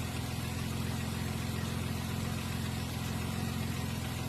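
Car engine idling steadily, left running to burp air out of the cooling system after a thermostat replacement.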